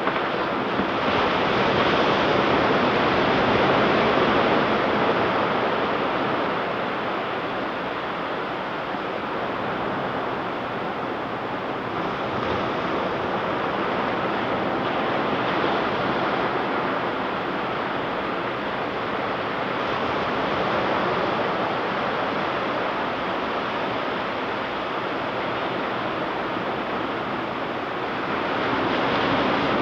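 Ocean surf breaking and washing on a beach: a continuous rush of waves that swells louder a few seconds in and again near the end.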